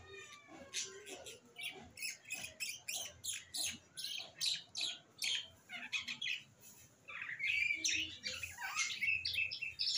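Small birds chirping in quick, repeated calls, with a couple of falling whistles at the start and busier, louder chirping for the last few seconds.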